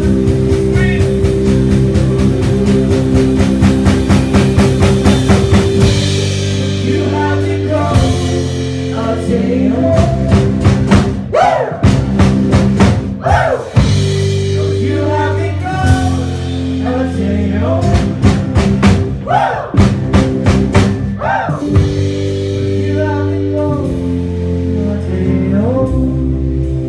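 Live rock band playing with keyboard, guitar, bass and drums, and a singer coming in partway through. A fast run of drum hits builds in the first several seconds.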